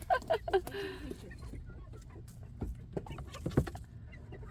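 Chickens clucking: a run of short clucks in the first second, then softer scattered clucks, with a couple of sharp knocks around the middle.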